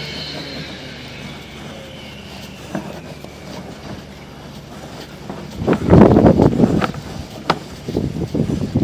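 Sewer inspection camera's push cable rattling and scraping as it is fed through the line, faint at first and turning loud and clattering about halfway through, with sharp clicks.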